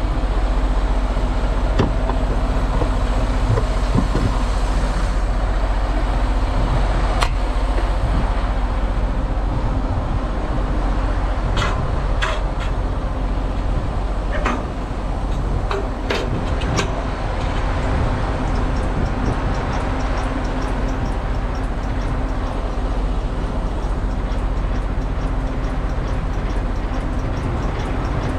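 Semi-truck's diesel engine idling steadily, with several short sharp knocks in the middle stretch.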